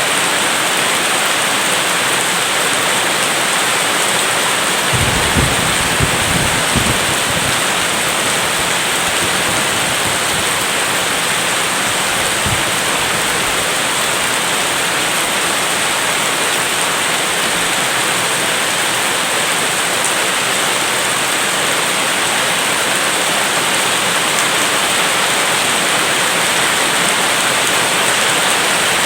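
Heavy rain falling steadily, a dense even hiss, with a few short low thumps about five to seven seconds in and once more a little later.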